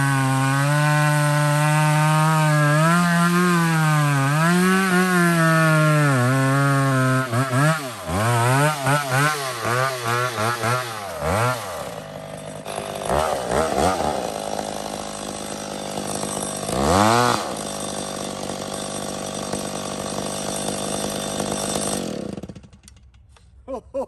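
McCulloch 850 two-stroke chainsaw cutting wood at a steady full-throttle note, then revved up and down several times. It drops back to a lower steady run with one more brief rev, and is shut off near the end.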